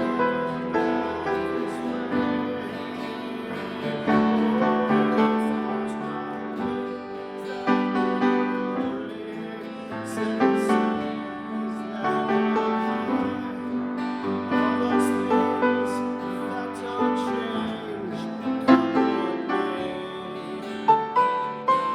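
Instrumental break of a folk song played live, with keyboard chords ringing and changing.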